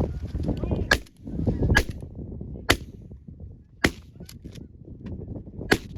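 A series of sharp clicks or snaps, about five loud ones spread roughly a second apart, over a low rumble of wind on the microphone.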